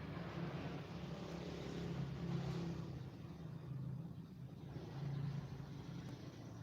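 A motor vehicle's engine running with a steady low hum, its noise fading after about three seconds as if moving away.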